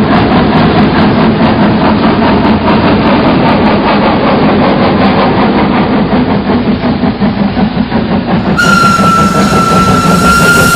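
Train running on rails: a dense, rhythmic clatter and rumble. About eight and a half seconds in, the sound changes abruptly and a long, steady, high train whistle begins and holds.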